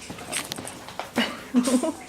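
Shih Tzu puppies playing, with scattered light clicks and scuffs and a few short high yips or whines near the end.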